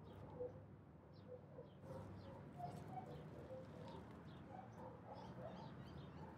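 Faint, scattered short bird calls, coo-like low notes with a few higher chirps, over a low steady background rumble.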